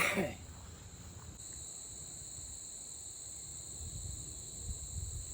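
Crickets chirring in a steady high-pitched trill that grows louder about a second and a half in, with some low rumbling near the end.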